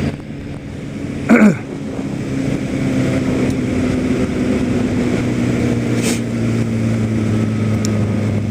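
Kawasaki ZX-10R sport bike's inline-four engine running steadily under way, with wind noise. About a second in there is a brief loud sound that falls sharply in pitch.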